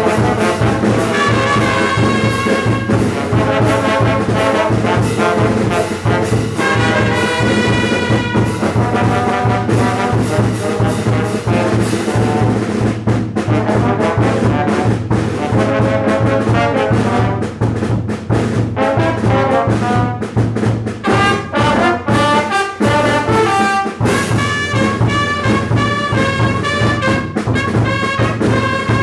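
Mexican banda brass band playing: trumpets and trombones carry the melody over a steady low bass line.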